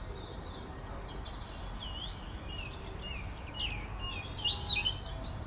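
Small birds chirping: a string of short high calls, with a louder flurry about four and a half seconds in, over a steady low outdoor rumble.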